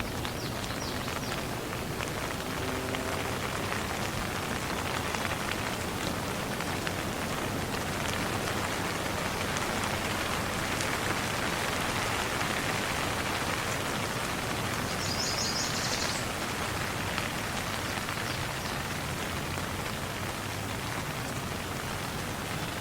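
Steady rain falling and pattering on surfaces, an even hiss of many drops. About two-thirds of the way through comes a brief high chirping sound.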